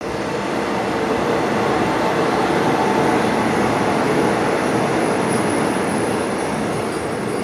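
Passenger train running past a station platform: a steady, loud rush and rumble of wheels on the rails, easing a little near the end.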